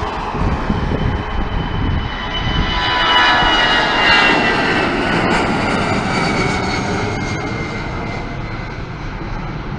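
Airliner's engines passing close by: a loud engine noise with a whine that falls in pitch as it goes by, loudest about four seconds in, then slowly fading.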